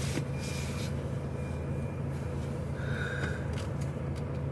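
Steady low drone of an HGV's diesel engine running, heard from inside the cab, with a brief high beep about three seconds in.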